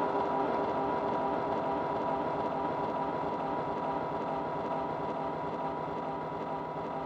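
A train running, a steady mechanical whine with several held tones over a rumbling noise, slowly getting quieter.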